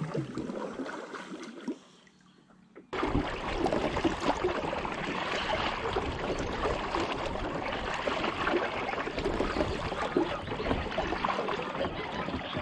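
Water splashing and trickling against a kayak on a lake, starting suddenly about three seconds in after a short quiet spell and going on steadily.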